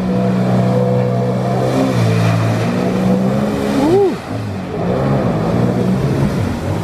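Jet ski engine running under way, its pitch stepping up and down with the throttle. About four seconds in there is a brief rising-and-falling whine.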